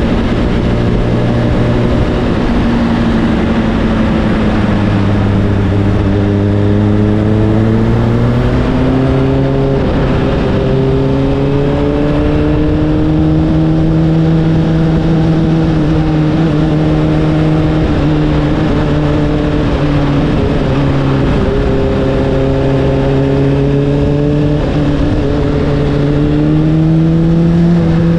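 Honda CBR600RR inline-four with an Akrapovic exhaust, cruising under light throttle. Its note dips a little about five seconds in, rises and holds steady, then climbs again near the end. Wind rushes over the on-bike microphone throughout.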